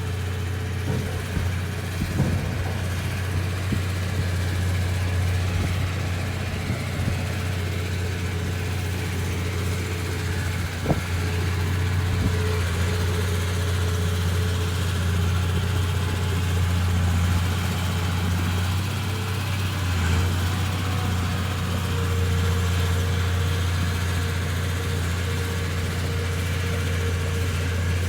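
Komatsu D31P bulldozer's diesel engine running steadily at an even pitch, with a single sharp knock about eleven seconds in.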